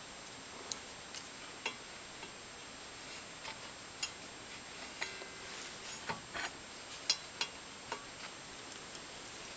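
Scattered light clicks and taps, about a dozen, irregularly spaced, from tools and small metal parts being handled on a table saw during blade alignment; the loudest comes about seven seconds in. A faint steady high whine sits underneath.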